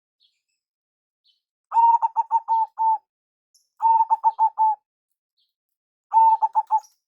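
Zebra dove (perkutut) cooing: three phrases, each a longer opening note followed by a quick run of short, even notes, with pauses of about a second between phrases.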